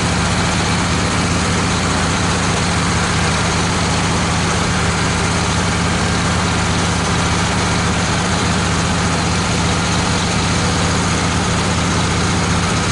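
Woodmizer LT15 portable sawmill's engine running steadily, with an even low hum and no change in pace.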